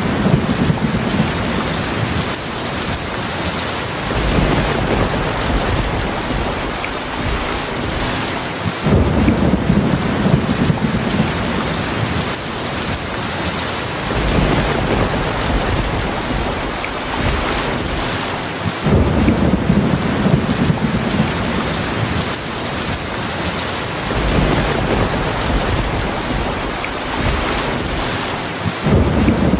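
Heavy rain falling steadily, with low rolls of thunder that start about every ten seconds and rumble on for several seconds each.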